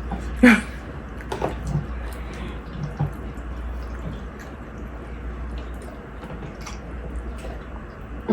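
Close-up wet eating sounds, chewing and mouth smacks of someone eating saucy ravioli, with a sharp smack about half a second in and a few fainter ones after, over a steady low hum.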